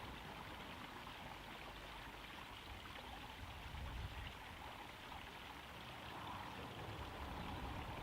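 Small garden pond waterfall, water trickling and splashing steadily into the pond.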